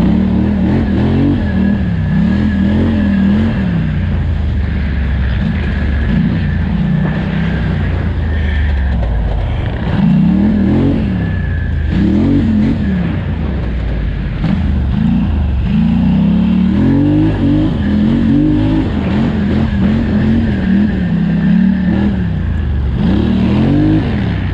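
A 2018 Polaris Scrambler 1000XP ATV's twin-cylinder engine under race throttle, its pitch rising and falling every second or two as the rider gets on and off the gas.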